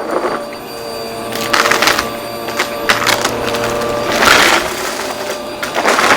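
Vacuum cleaner running with a steady motor whine, with bursts of crunching and crackling as hard debris is sucked up, loudest about four seconds in.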